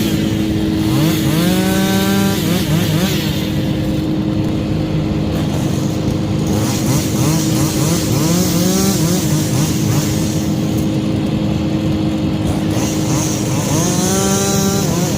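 Chainsaw revving up again and again, its pitch rising with each rev, clearest about a second in and near the end, over the steady drone of another engine running at constant speed.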